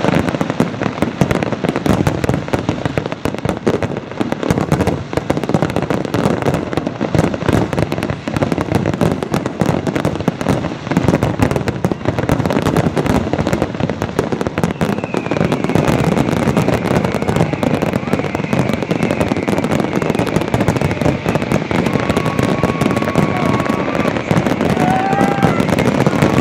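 Large aerial fireworks display: a dense, unbroken barrage of shell bursts, bangs and crackling. A few high whistling tones come in over it in the second half.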